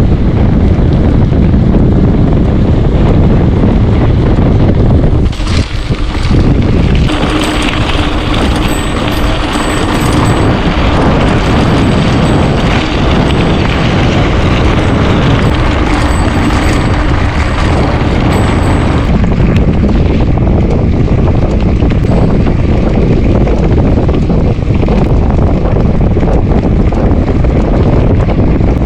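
Heavy wind buffeting on a helmet or handlebar camera's microphone on a moving mountain bike: a loud, dense low rumble that eases briefly about five seconds in.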